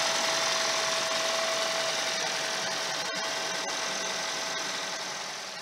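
2016 Toyota RAV4 Hybrid's 2.5-litre four-cylinder engine running in the open engine bay, a steady mechanical hum with a thin, steady high tone, slowly getting quieter toward the end.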